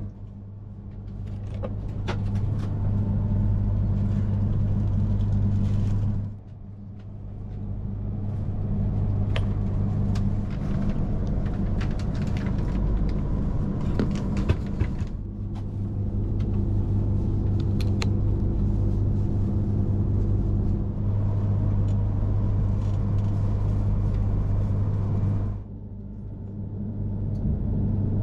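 Steady low electrical hum of an E3 series Shinkansen train standing at the station before departure, with scattered light clicks; it drops out abruptly about six seconds in and again near the end, each time swelling back up.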